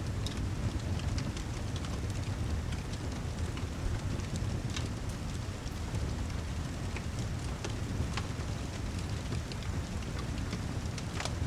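Steady rain ambience with a low rumble underneath and scattered sharp crackles from a fireplace fire.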